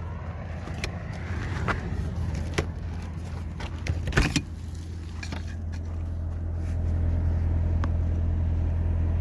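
Steady low drone of a moving vehicle's engine and road noise heard from inside the cab, growing louder about seven seconds in. A few short clicks and knocks break in, the loudest cluster a little past the middle.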